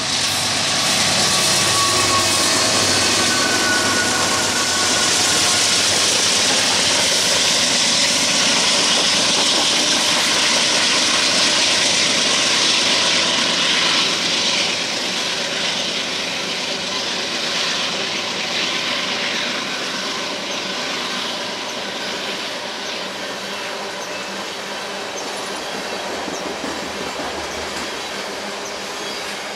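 Two Norfolk Southern diesel locomotives passing close, their engine note falling in pitch as they go by, followed by a long string of tank cars rolling past with steady wheel-on-rail noise. A light wheel squeal comes through a few seconds in, and the sound drops a little about halfway through.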